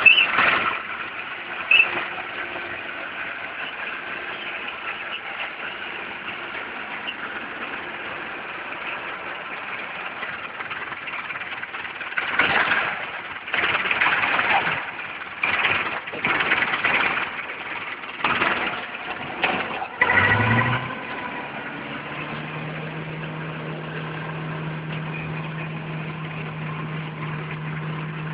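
Belarus tractor's diesel engine running steadily, with a run of loud bursts over it past the middle. Near the end the engine note rises and settles into a steady, even hum.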